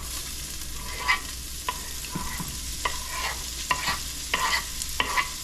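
Chopped white onion and garlic sizzling in hot bacon grease in a Dutch oven as they are scraped in, with a steady frying hiss. A wooden spoon scrapes and taps against the wooden cutting board and the pot in short clicks throughout.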